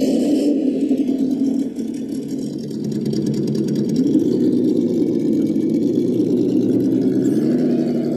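Electric motor of a radio-controlled model running with a steady hum whose pitch shifts slightly about halfway through and again near the end.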